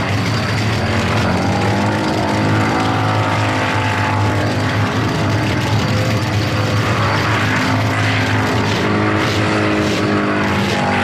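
V8 engine in a Holden Gemini held at high revs during a burnout, its pitch rising and falling as the throttle is worked, over the noise of the spinning rear tyres.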